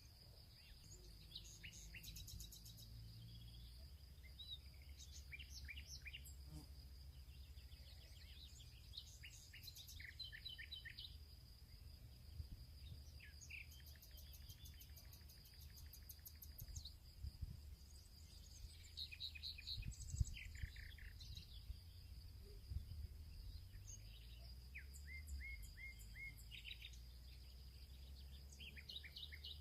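Several birds chirping and singing in short calls and trills, over a steady high insect drone and a low background rumble.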